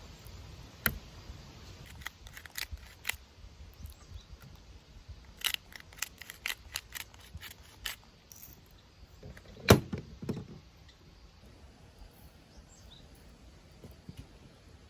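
Scattered sharp clicks and knocks, with a quick cluster around the middle and one loud knock with a dull thud about ten seconds in, over a faint outdoor background.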